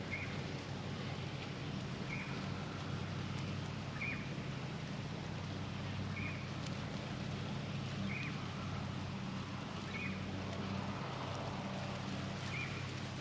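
Outdoor background with a steady low hum and a short, high chirp repeated about every two seconds, typical of a small bird calling.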